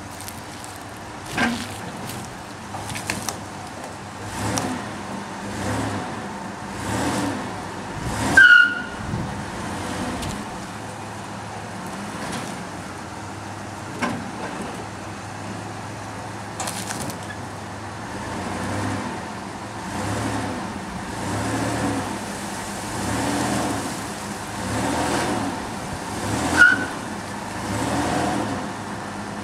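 Vehicle engine running and revving in repeated swells about every second and a half as it rocks back and forth, straining against the palm tree to loosen its roots. Two brief high squeaks sound over it, one about a third of the way in and one near the end.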